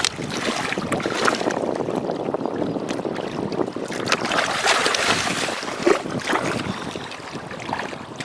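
Water splashing and sloshing in uneven bursts, with many small splashes.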